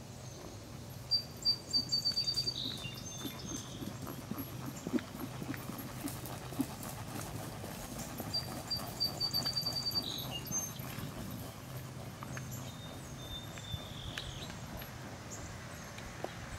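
A songbird singing the same short phrase twice, a quick run of high repeated notes ending in a couple of lower slurred notes, over faint outdoor ambience.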